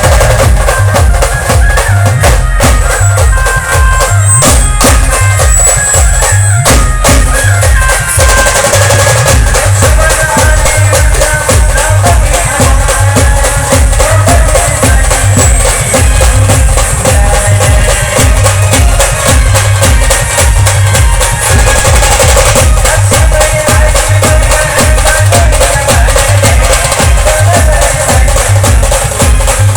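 A band playing loud music: a heavy, steady drum beat under a melody.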